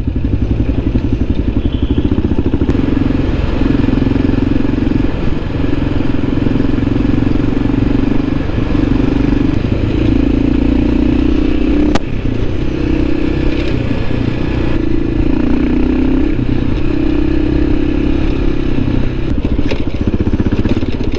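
Motorcycle engine running under way, its note swelling and easing off over and over as the throttle is worked, with a sharp click about twelve seconds in.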